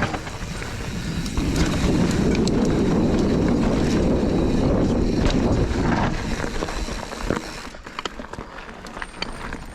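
Mountain bike descending a dirt trail: wind rushes over the helmet-mounted microphone and the tyres roll over dirt and roots, with frequent clicks and rattles from the bike. The rushing is loudest through the middle and eases off near the end.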